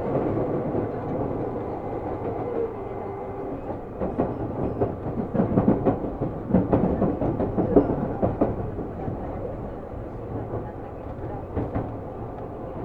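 Seibu New 2000 series electric train running, heard from inside the car: a steady rumble, with a stretch of clattering as the wheels pass over rail joints and points in the middle. The overall noise eases off toward the end.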